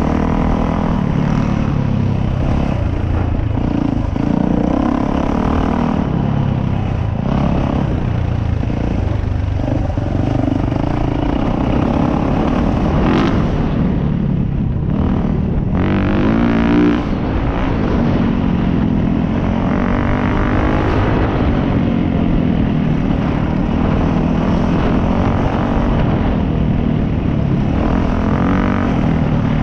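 Dirt bike engine running under riding, its pitch rising and falling as the throttle is worked, with a sharp rev about halfway through.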